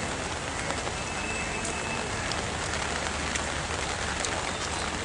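Steady rain hiss, with scattered faint ticks of drops.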